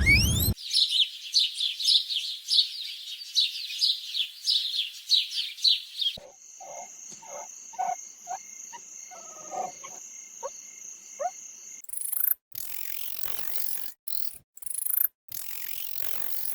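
A run of short wildlife recordings cut together: first a fast series of high, downward-sweeping chirps for about five seconds, then a steady high insect drone with scattered short chirps and calls, then a hissing stretch broken by several sudden dropouts near the end.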